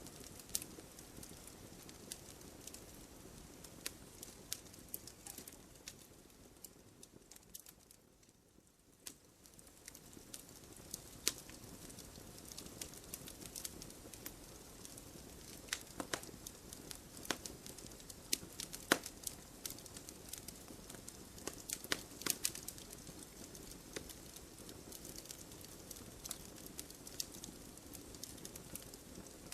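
Wood fire burning in a fireplace: irregular sharp crackles and pops over a steady low hiss of the flames, the hiss dropping away briefly about eight seconds in.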